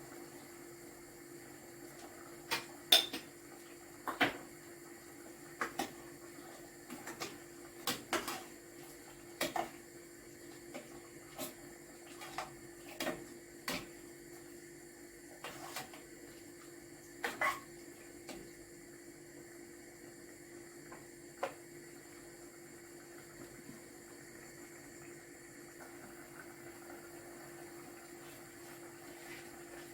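Kitchenware clattering and clinking as pieces are handled and set down: about fifteen sharp knocks spread irregularly over the first two-thirds, the loudest about three seconds in. A steady low hum runs underneath, and after the knocks stop only the hum remains.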